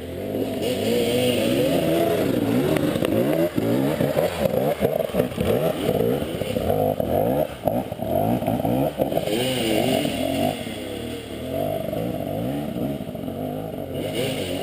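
Enduro motorcycle engine revving hard and unevenly, its pitch rising and falling over and over as the throttle is worked.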